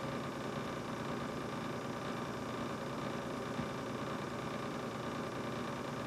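Brand-new GE refrigerator running: a steady whirring hum with a faint high tone held throughout.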